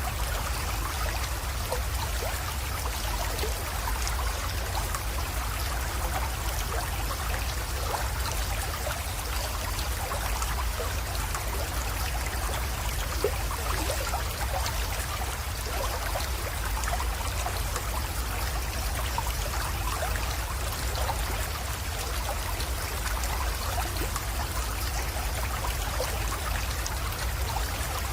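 Small creek water trickling and splashing steadily into a pond, a continuous babble of many small drips and splashes with a low background rumble.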